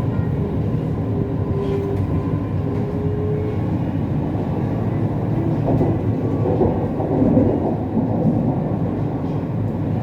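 Siemens Inspiro metro train running between stations, heard from inside the car: a steady rumble of wheels on rails and running gear, with a thin steady tone in the first few seconds.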